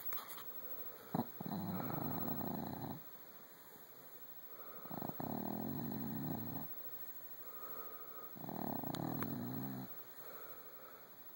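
A 14-year-old dachshund snoring in its sleep: three snores, each about a second and a half long, coming about every three and a half seconds. A sharp click comes just before the first snore.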